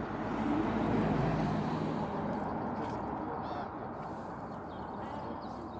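A road vehicle passing, its noise swelling over about a second and then slowly fading away.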